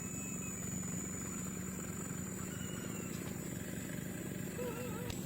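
A steady low engine-like hum, with a few faint, short wavering calls near the end.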